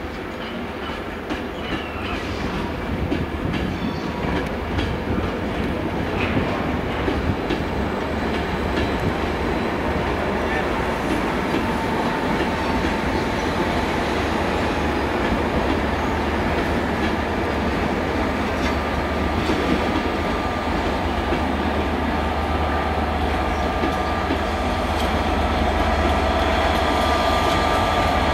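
Loco-hauled passenger train passing at low speed, wheels clattering over the rail joints and points. It grows steadily louder, with the steady drone of the diesel locomotive at the rear strengthening near the end as it draws level.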